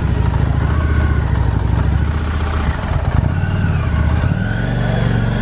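Harley-Davidson Street 750's V-twin engine running with a deep, steady exhaust note; its pitch shifts about four seconds in as the engine speed changes.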